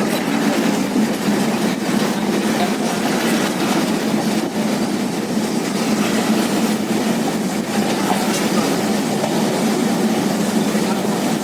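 Passenger train running steadily, heard from aboard: a continuous rumble of wheels on the rails, with faint scattered clicks.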